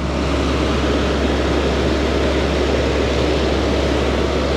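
Tractor engine running steadily with a constant low hum and a dense mechanical drone, unchanging throughout.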